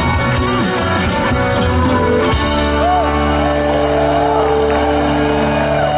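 Live rock band playing loud with distorted guitars; a little over two seconds in the dense playing cuts off and a held chord rings on, with a few sliding tones over it, as the song ends.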